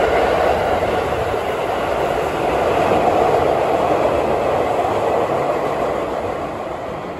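Train running through the station without stopping: a steady rush and rumble of wheels on rails that builds, is loudest around the middle, and fades toward the end.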